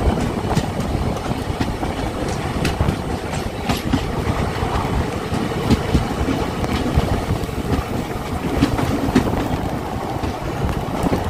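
Passenger train coaches running into a station, the wheels clacking irregularly over rail joints and points over a steady rumble.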